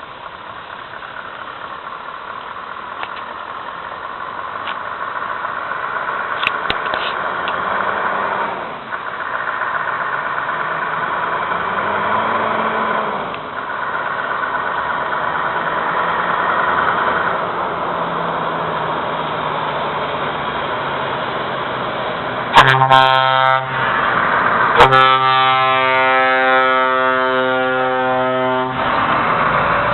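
Scania R620 truck running, growing louder over the first several seconds, then its air horn sounded twice: a short blast, then a long blast of about four seconds near the end.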